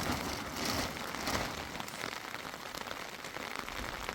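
Heavy rain falling steadily, a dense patter of many small drops.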